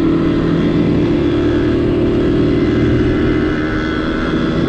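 Small vintage Honda motorcycle engine running steadily while riding. Its note and loudness drop slightly about three and a half seconds in.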